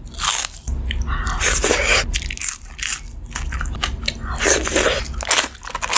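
Close-miked eating ASMR: a run of loud crisp crunches from biting into and chewing crunchy fried food, one bite after another.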